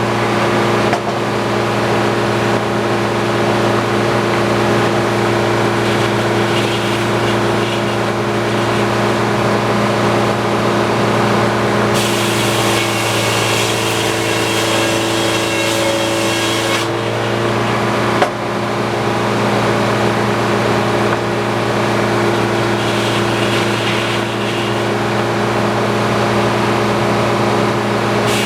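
Antique sawmill running under power: a steady engine-and-machinery drone with a constant hum. The hiss above it shifts for a few seconds near the middle, and there is one sharp knock about two-thirds of the way through.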